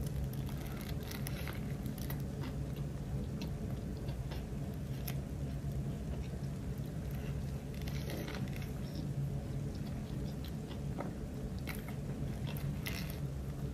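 Close-miked sounds of a person biting into and chewing a burger, with irregular soft crunches from the bun and lettuce, over a steady low hum.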